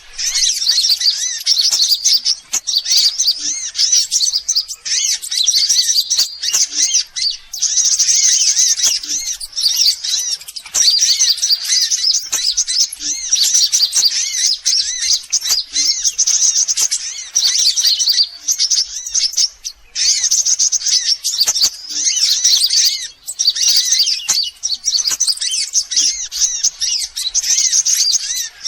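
Sunbird lure call: rapid, high-pitched chirping and twittering in phrases of a second or two, broken by brief gaps and repeating over and over.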